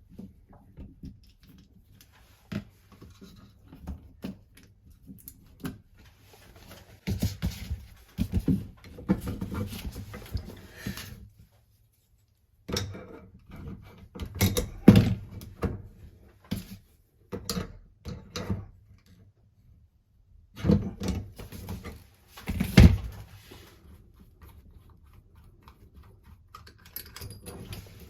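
Hand-tool and parts-handling noise from work on a washing-machine faucet: irregular knocks, clunks and clicks in bunches, with a short pause about twelve seconds in.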